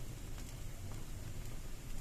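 Wood campfire burning in a cave: a low steady rush of flame with a few faint crackling pops.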